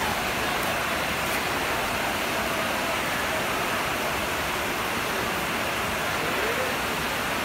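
Heavy rain on the hall's roof, a steady rushing noise that does not change.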